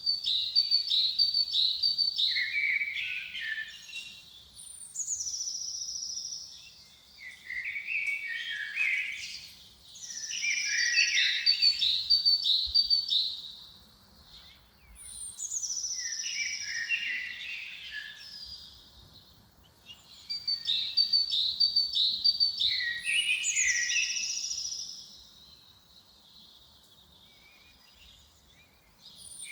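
A songbird singing the same short phrase over and over, about every five seconds. Each phrase opens with a high falling note, runs into a quick series of notes and ends on a few lower notes, with short quiet gaps between songs.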